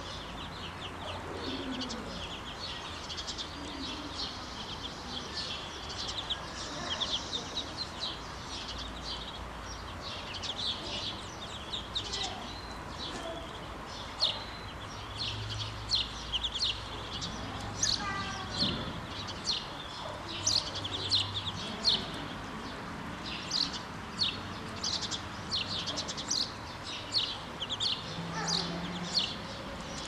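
Small birds chirping: many short, high chirps in quick succession, sparse at first and growing denser and louder through the second half.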